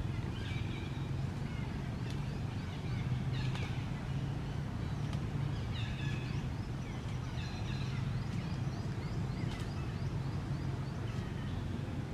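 Birds chirping in short repeated phrases, some as quick runs of falling notes, over a steady low rumble.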